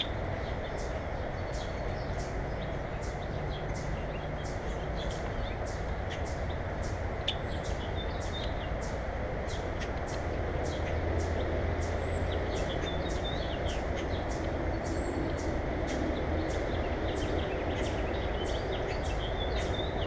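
Steady outdoor background hiss with faint bird chirps now and then, and a faint, regular high ticking about two to three times a second.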